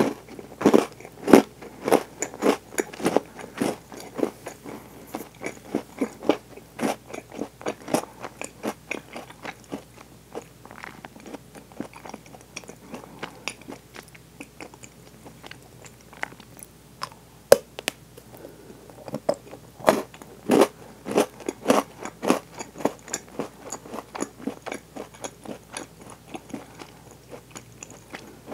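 Close-miked chewing and crunching of Milka Oreo chocolate, the cookie pieces crackling between the teeth in a steady rhythm of about two to three chews a second. The chewing softens about a third of the way in and grows loud and crunchy again past the middle.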